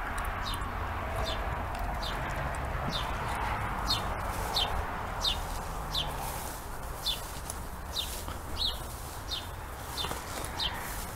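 A bird calling over and over in short, high, falling chirps, about two a second, with a steady rustle underneath.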